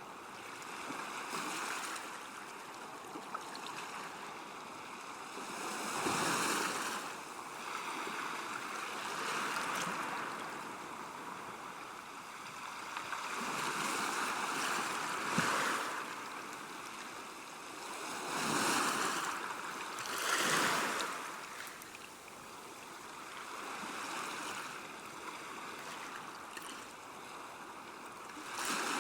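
River water washing against a bank, a steady rushing wash that swells louder every few seconds.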